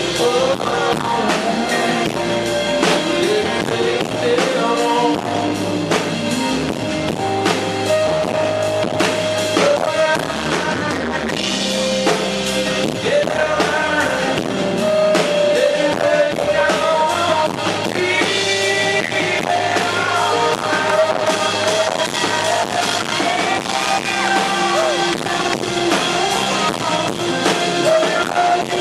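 Live country-rock band playing a song at full volume: a drum kit keeping a steady beat under electric guitars and sustained melody lines.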